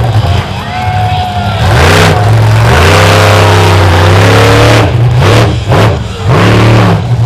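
Monster truck's supercharged V8 engine revving hard in repeated bursts, its pitch climbing and falling as the throttle is opened and cut, with a few brief drops around five and six seconds in.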